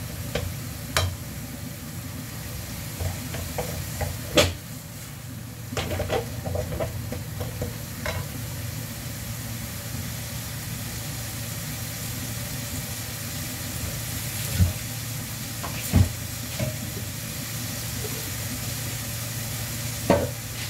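Chicken strips, julienned carrots and onion sizzling steadily in a nonstick wok, stirred with a wooden spatula that scrapes and clicks against the pan during the first several seconds. A few sharp knocks of utensil on pan stand out, one about four seconds in and two more some fifteen seconds in.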